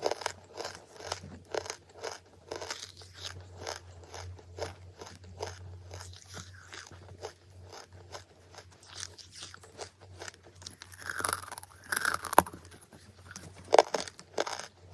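Close-miked chewing of charcoal: a steady run of short, dry crunches, with louder bites near the end, over a faint steady low hum.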